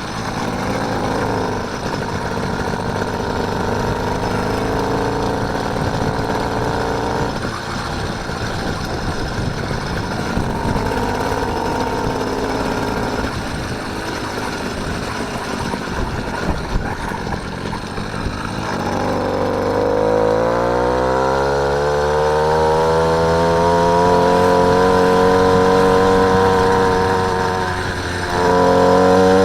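Small engine of a motorised bike running while riding, its pitch wavering at first, then rising steadily as it speeds up about two-thirds of the way in and holding high, with a brief dip near the end before it picks up again.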